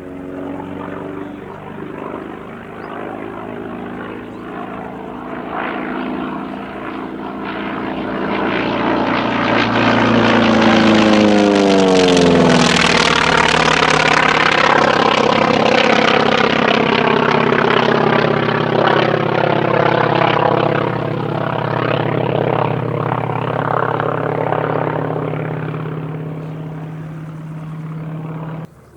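North American T-28 Trojan's Wright R-1820 nine-cylinder radial engine and propeller on a flyby, growing louder, dropping sharply in pitch as it passes about twelve seconds in, then fading away. The sound cuts off suddenly near the end.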